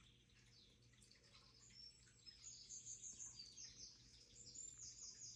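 Faint bird chirping, a series of short high notes starting about two seconds in, over a low steady hum.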